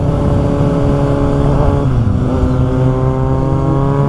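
Kawasaki Z800's inline-four engine running loud through an Ixil exhaust with the dB killer removed. About two seconds in, the note drops with an upshift, then climbs steadily as the bike pulls in the higher gear.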